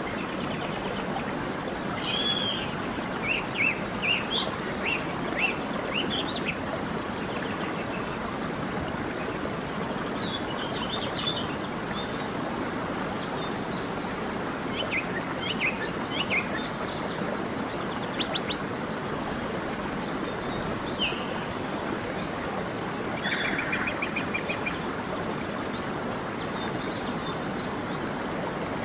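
A creek runs with a steady rushing sound while birds sing over it in scattered bursts: a quick series of chirps early on, a few short calls in the middle, and a fast trill a little over halfway.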